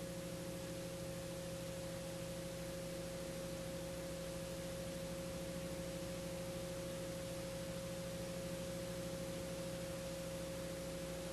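A faint, steady hum with one constant mid-pitched tone over a light hiss, unchanging throughout.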